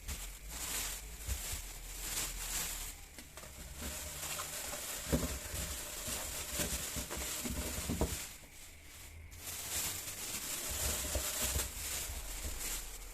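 Plastic shopping bags rustling and crinkling as groceries are handled and put away, with a few light knocks of items being set down about five and eight seconds in.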